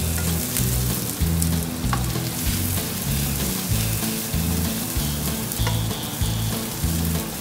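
Sliced onions sizzling as they fry in a non-stick frying pan, stirred and tossed with a spatula that knocks lightly against the pan a couple of times. A steady low bass beat of background music runs underneath.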